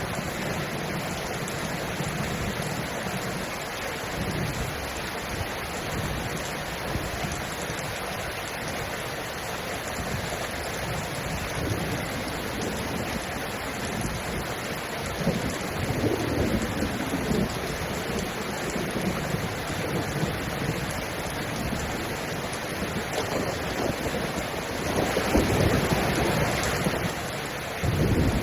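Steady heavy rainfall, an even hiss, with deeper rumbling swells about halfway through and again near the end.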